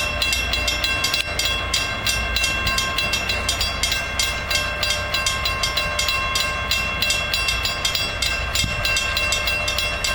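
Railroad grade-crossing bell ringing steadily and rapidly, each strike leaving a ringing tone, over a low steady rumble. The crossing has been activated by shunt clips on the rails.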